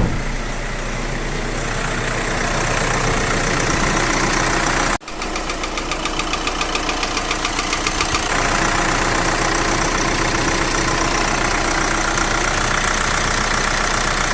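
VW Crafter's 2.0 BiTDI twin-turbo diesel idling evenly, with no knock to be heard, interrupted by a short break about five seconds in.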